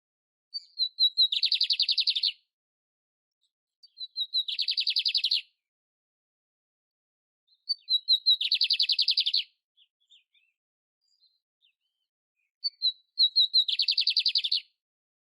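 Canário império singing the same short song four times, about four seconds apart. Each song is a few short high notes followed by a fast trill about a second long.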